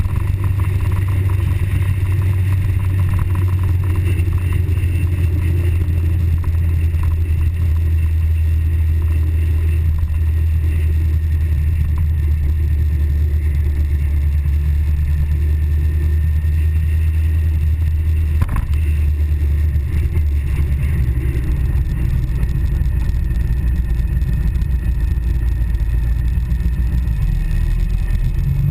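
Suzuki GSX-R 750's inline-four engine running at a steady cruise under a heavy rush of wind, with a single sharp knock about eighteen seconds in. Near the end the engine note drops, then starts to climb again as the bike accelerates.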